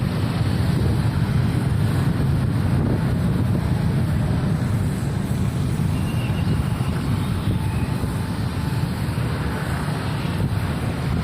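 Steady, low rumbling outdoor noise with no distinct events.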